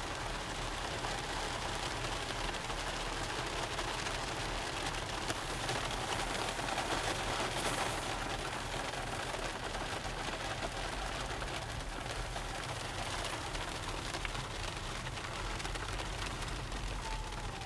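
Rain falling steadily on a car's windshield and roof, heard from inside the moving car, with a steady low road rumble underneath.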